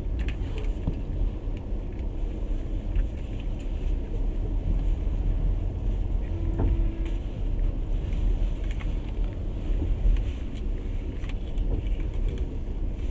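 Passenger train running along the line, heard from inside the carriage: a steady low rumble of the wheels on the rails with scattered light clicks, and a short faint tone about halfway through.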